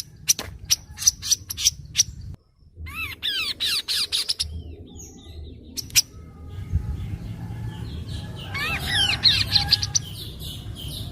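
Kaso-kaso songbird calling: sharp chip notes about three or four a second, then two quick trills of down-slurred whistled notes, one about three seconds in and one near the end, over a low background hum.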